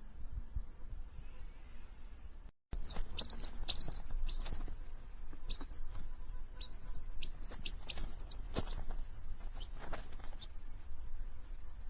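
Small bird chirping: a quick run of short, high chirps that begins after an abrupt cut about two and a half seconds in and thins out near the end, over a steady low rumble.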